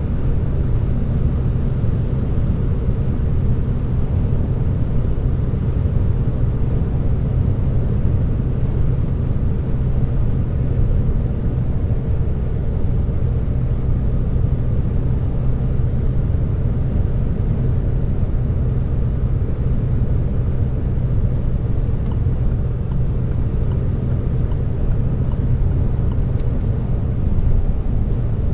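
2018 Peugeot 308 1.6 BlueHDi four-cylinder turbodiesel driving along, its engine hum and road noise blending into a steady low drone. There is no change in pitch or level.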